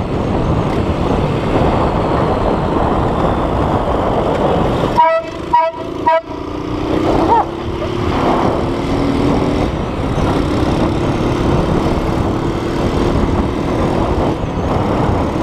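Car air horn blasting three short toots about five seconds in, over loud driving noise, followed by a long, lower steady tone.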